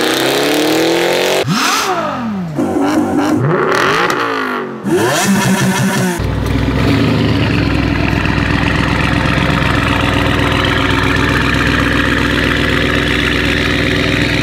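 Tuned Audi RS6 C8's twin-turbo V8 revving in several rising and falling sweeps, then, from about six seconds in, idling steadily with a deep, even note.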